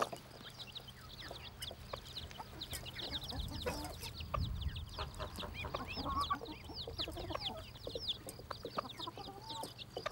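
Chicks peeping without pause, many quick high chirps that each fall in pitch, mixed with a hen's lower clucks.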